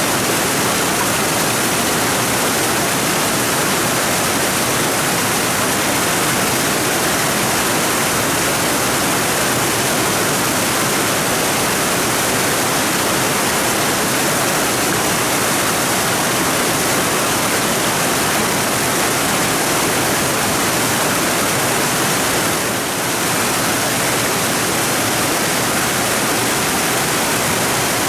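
Mountain stream rushing steadily over its bed, a dense, even sound of flowing water that dips briefly about 23 seconds in.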